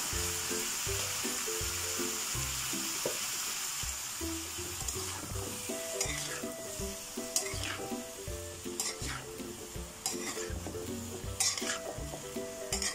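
Chopped bottle gourd sizzling in a hot non-stick frying pan, loudest at first just after liquid seasoning is splashed in. A metal spoon stirs the pieces, and from about halfway through it scrapes sharply against the pan several times.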